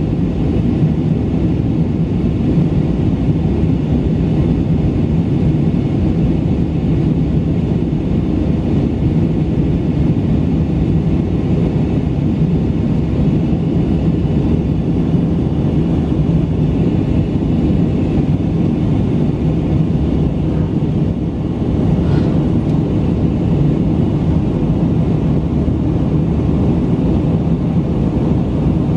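Airbus A319 jet engines and airflow heard inside the passenger cabin in flight: a steady, loud rumble with a low hum.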